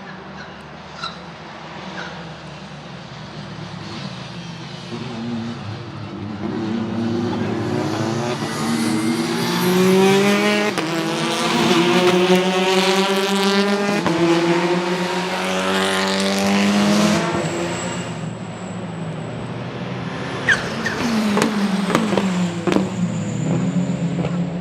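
Hyundai Elantra N's 2.0-litre turbocharged four-cylinder accelerating hard, the revs climbing, dropping sharply at a gear change about halfway through, climbing again and then cutting off. Near the end come a few quick rev changes with sharp exhaust crackles as it downshifts.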